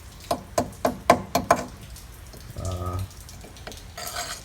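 About six quick knocks of metal against metal in the first second and a half, as a cut steel patch plate is knocked against the truck frame while being offered up to the cracked section.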